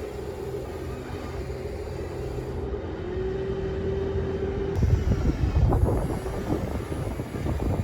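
Small electric motor of a radio-controlled toy construction machine whining steadily. Its pitch steps up about three seconds in and it stops near five seconds. Rough crunching and scraping noise follows.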